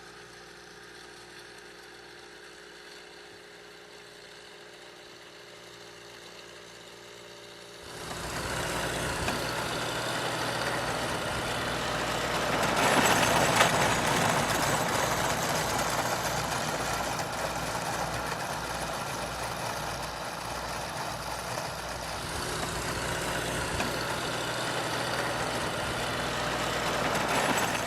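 A 1961 International 434 tractor's diesel engine runs quietly and steadily, then gets much louder about eight seconds in and stays loud.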